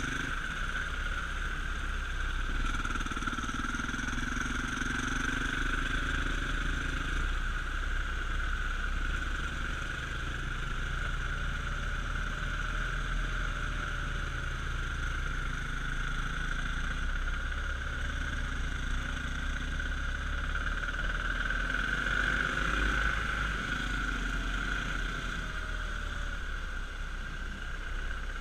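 Dirt bike engine running steadily while riding, its pitch shifting a little as the throttle changes.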